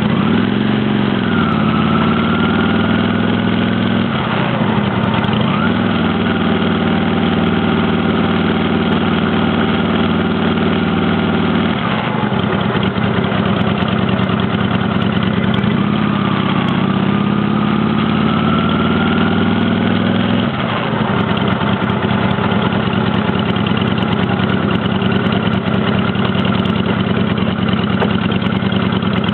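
Honda Shadow 600's V-twin engine running under way, its pitch dropping and climbing again a few times as the rider changes gear, over a steady rush of wind and road noise.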